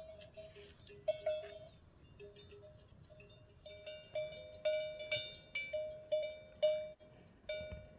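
Metal livestock bells clanking irregularly, several strokes a second. A higher-pitched bell is joined early on by a lower one, and the clanks grow louder and more frequent from about halfway through.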